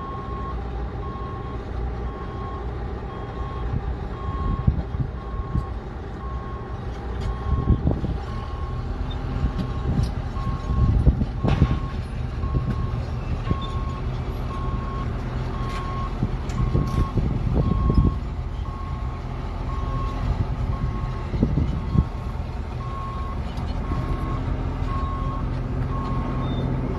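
Heavy equipment's backup alarm beeping steadily over the low rumble of running engines, with a few loud metallic knocks.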